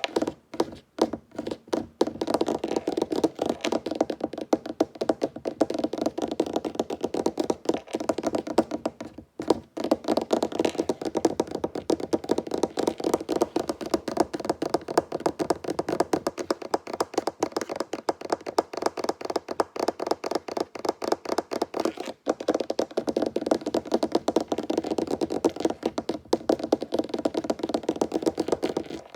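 Fingertips tapping rapidly on a wooden tabletop: a dense stream of quick, hollow taps with brief pauses about a second in and about nine seconds in.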